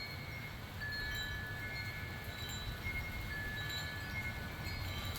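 Metal wind chimes ringing in the breeze, their clear tones starting and fading again and again over a steady low rumble.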